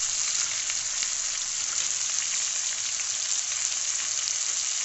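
Freshly added ginger, onion and garlic paste frying in hot oil in a kadai with potato cubes: a steady sizzle with many small crackling pops.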